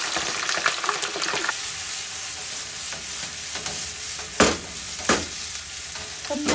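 Meatballs sizzling in hot oil, then being tossed in sauce in a frying pan, with a steady hiss throughout. Two sharp knocks about four and five seconds in as the pan is tossed.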